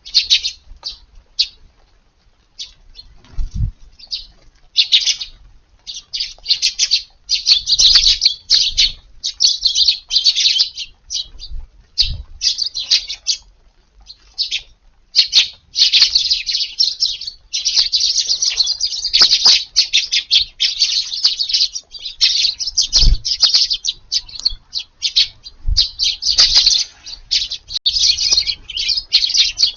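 A flock of Eurasian tree sparrows chirping while feeding. The chirps are scattered at first and become dense and almost unbroken from about halfway through, with a few soft low thumps in between.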